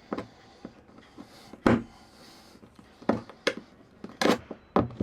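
Several irregular knocks and clunks, the loudest about a second and a half in, with quieter ones spread through the rest.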